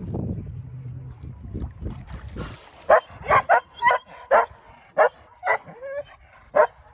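A dolphin calling in air: a quick run of about ten short, high squeaks with a few brief whistles mixed in, starting about three seconds in. A low rumble of wind or water comes before the calls.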